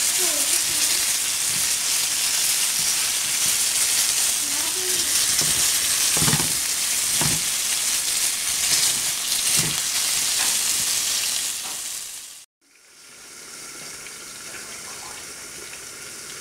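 Flour-coated squirrel pieces frying in butter in a nonstick pan: a loud, steady sizzle with a few knocks as the pieces are turned with tongs. About twelve seconds in it cuts off abruptly, leaving much quieter room sound.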